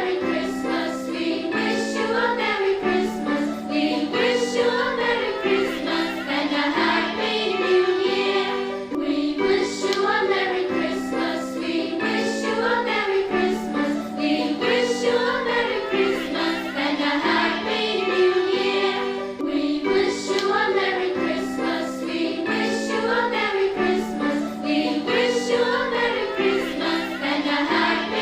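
Music: a choir singing over a steady instrumental backing.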